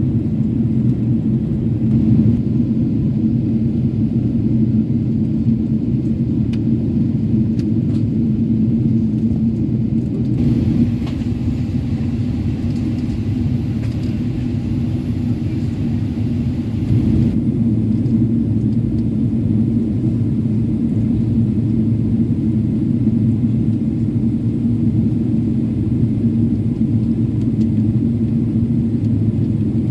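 Steady low drone inside a Boeing 777-300's cabin during descent, from the engines and airflow, with a constant hum running through it. A higher hiss joins about ten seconds in and drops away about seven seconds later.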